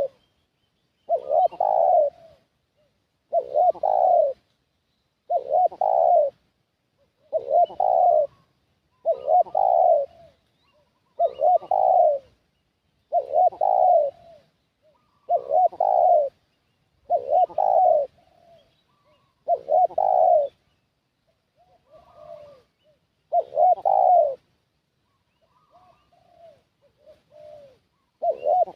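Spotted dove (tekukur) lure call: a loud cooing phrase of about a second, repeated roughly every two seconds. After about 20 s the rhythm breaks into softer, shorter coos around one more loud phrase.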